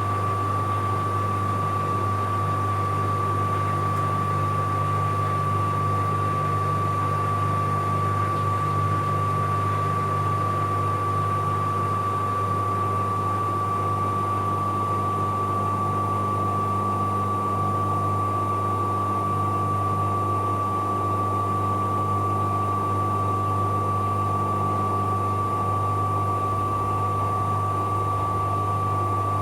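Bauknecht Super Eco 7615 washing machine spinning at a steady speed: a constant high whine from its inverter motor over a steady low hum and the rush of the turning drum.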